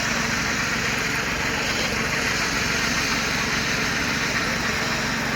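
Excavator engine running steadily at a constant speed, an even mechanical drone that neither rises nor falls.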